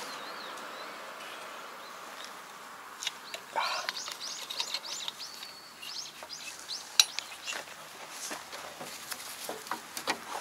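A bird chirping a quick run of high notes that sweep up and down, over scattered sharp clicks and knocks from metal parts of a Kobashi rotary tiller being handled. The loudest click comes about seven seconds in.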